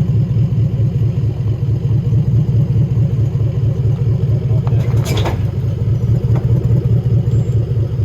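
Off-road 4x4's engine running low and steady while crawling down a trail drop-off. A brief noise about five seconds in.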